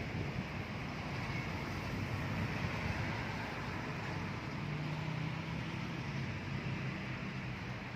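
Steady low engine rumble over a constant hiss, swelling slightly in the middle, with no single sharp event.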